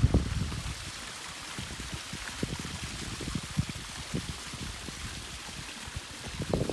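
Water from a backyard pond's waterfall, running and splashing in a steady trickle and pour. There is a louder low bump right at the start.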